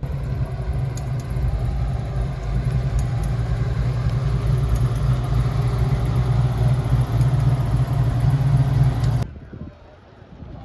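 A car engine running steadily with a deep, low rumble; it starts abruptly and cuts off suddenly about nine seconds in.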